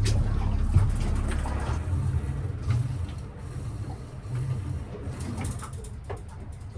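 Small boat's motor running at low trolling speed, a steady low rumble that eases off over the last few seconds, with a few light clicks and knocks.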